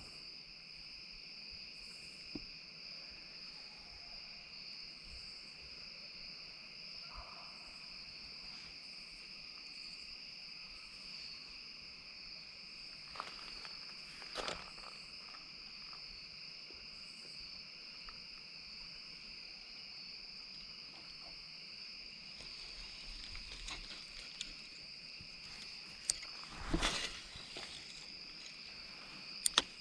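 Steady evening chorus of crickets, a continuous high-pitched trill, with a few brief, louder noises about halfway through and near the end.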